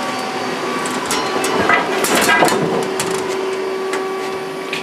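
Samsung PL10 CNC lathe powered up and humming steadily with a constant tone. A cluster of clicks and rattles comes about one to three seconds in.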